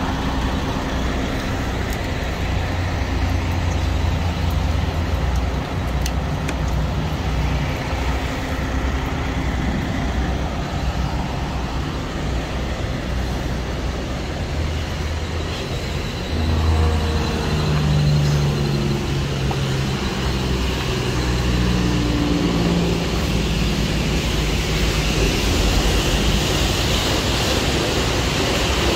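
Semi truck running on the road: a steady diesel engine drone with road noise. From about halfway through, the engine note climbs in steps as it pulls.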